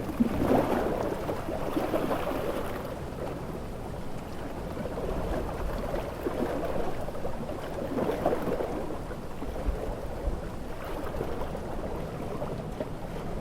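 Heavy rain and sea waves in a storm: a steady rushing wash that swells and eases every few seconds as waves break.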